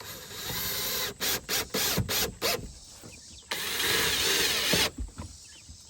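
Cordless drill driving screws: a run of about a second, a quick string of about six short trigger bursts, then a longer run of about a second near the end.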